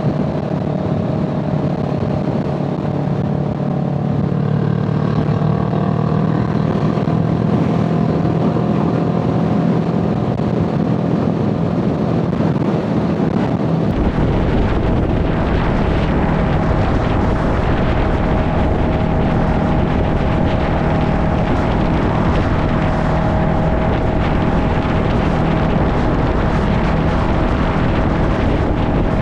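A vehicle engine running steadily while driving, its pitch shifting a little early on. About halfway through, a heavy low rumble of road or wind noise comes in and stays under the engine.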